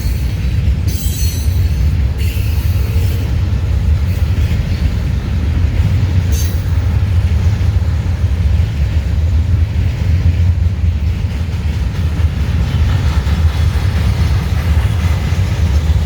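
Norfolk Southern freight train cars rolling past with a steady low rumble, with short high wheel squeals near the start and again about six seconds in.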